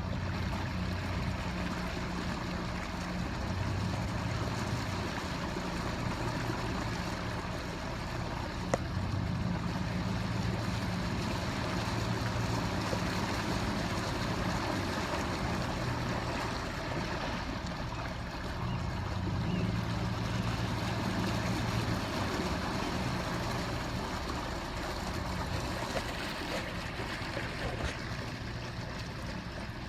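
A motor vehicle's engine humming, its pitch shifting slowly, under a steady rushing noise, with one sharp click about a third of the way in.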